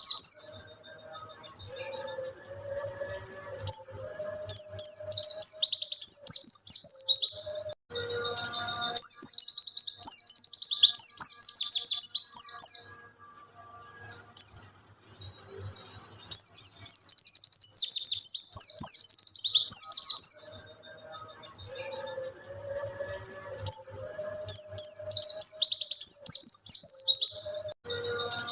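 White-eye (pleci) singing non-stop in fast, high twittering phrases of several seconds each, separated by short pauses.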